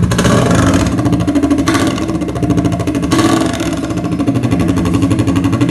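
Scooter's single-cylinder engine running through a new aftermarket exhaust with its dB killer fitted, revved in three short throttle blips about a second and a half apart, with a rapid exhaust burble between them.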